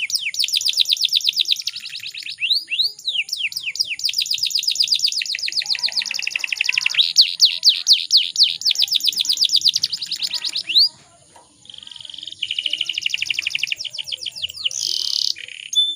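Domestic canary singing in rapid trills of high, sweeping chirps that shift from one note type to another, with a short break about two-thirds of the way through.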